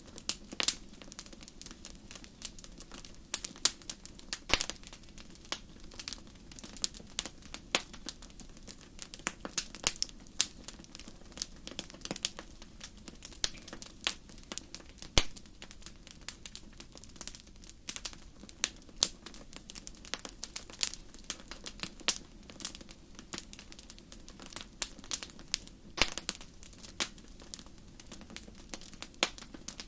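Campfire crackling steadily, with irregular sharp pops and snaps over a low, even rush.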